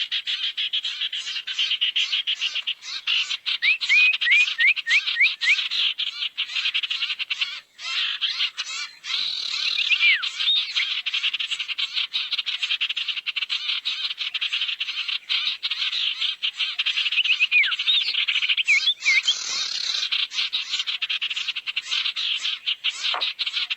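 Bird lure recording of sirtu calls: a dense, rapid chattering trill with several runs of quick hooked whistle notes. It is played back as a looped lure to draw in wild birds of the same kind.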